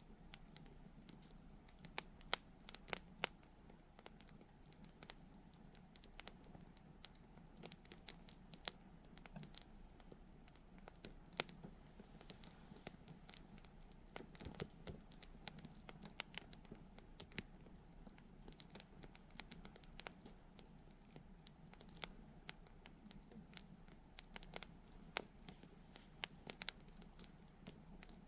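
Wood campfire crackling: irregular sharp pops and snaps scattered throughout over a faint steady hiss of burning, with a few louder pops around two to three seconds in.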